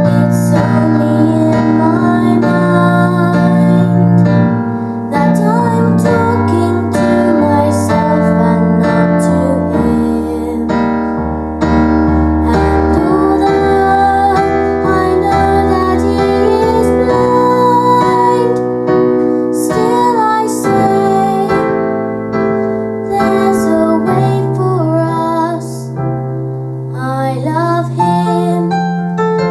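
A young girl singing a song over piano or keyboard accompaniment, the chords held under a wavering melody line.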